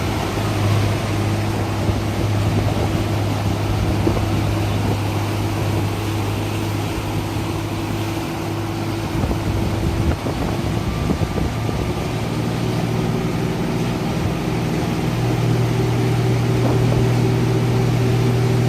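Motorboat engine idling with a steady low hum. Its tone shifts about ten seconds in and again a few seconds later.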